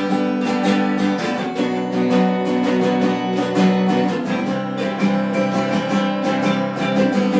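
Acoustic guitar strummed in a steady rhythm, playing the instrumental intro of a song just after a count-in.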